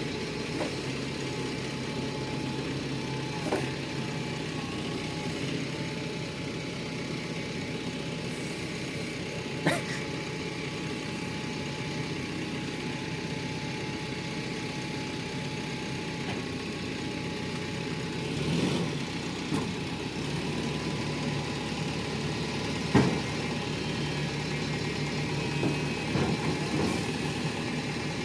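Heavy vehicle's diesel engine running steadily, with a few sharp knocks or clunks over it, the loudest late on.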